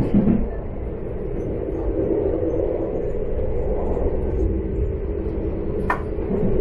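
Local diesel railcar running along the line, heard from on board: a steady rumble with a low hum. A single sharp click comes near the end.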